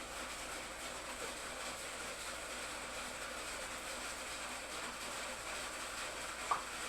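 Steady hissing noise, with one brief high squeak near the end.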